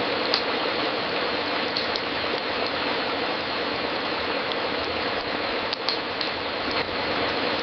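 Fireplace crackling: a steady hiss with scattered sharp pops, the loudest pop a little before six seconds in.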